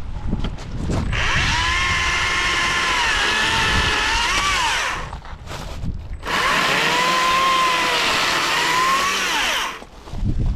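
Petrol two-stroke chainsaw cutting firewood in two runs of a few seconds each, with a short break between; its engine pitch wavers, dipping and recovering as the chain works through the wood.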